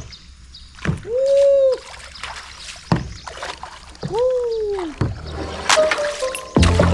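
Water splashing with a couple of sharp strokes, and two drawn-out vocal calls that rise and then fall in pitch. Music with a beat comes in near the end.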